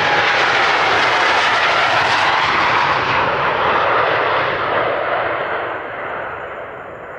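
Twin-engine Boeing 787-10 jetliner taking off at full thrust, its engine roar loud for the first few seconds with a falling-pitch whine, then fading from about six seconds in as it climbs away.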